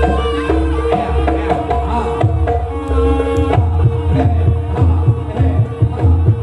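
Live jaranan music: a fast, busy pattern of kendang hand drums under a ringing steady tone and a changing melody line.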